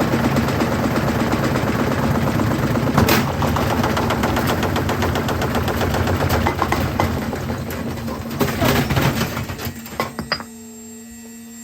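Bricks banging rapidly around inside the spinning drum of an LG washing machine, a loud fast clattering of hard blows. The clatter thins out and stops about ten seconds in, leaving a steady low hum.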